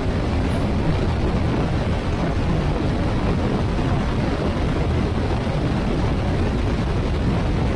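Steady wind rush and engine and road noise from a Honda Africa Twin motorcycle riding at highway speed, heavy in the low end and unbroken.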